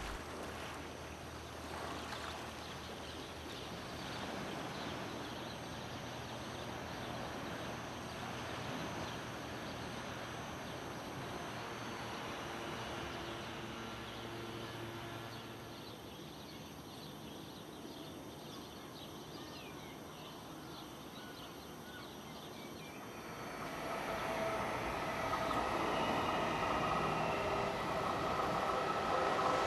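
Gentle surf washing on a pebble beach for the first half. After a quieter stretch, an electric passenger train approaches and grows louder over the last several seconds, with a steady high-pitched squeal.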